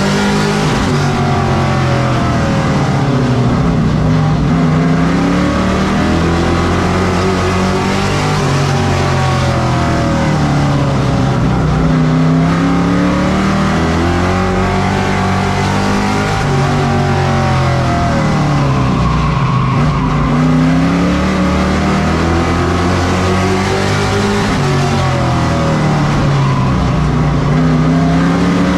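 Pro truck racing engine at full race pace, its pitch repeatedly rising under acceleration and falling as the driver lifts, about every seven to eight seconds, with the rhythm of laps on a short oval.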